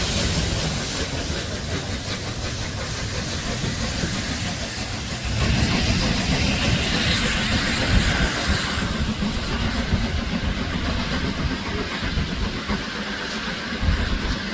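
Steam locomotive, the Peppercorn Class A1 Tornado running light engine, pulling away: its steam hiss fades, and a low rumble rises about five seconds in.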